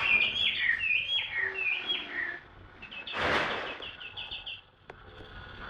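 A caged songbird singing in quick runs of chirped, falling notes, with a short rustling burst midway and then a fast series of repeated notes.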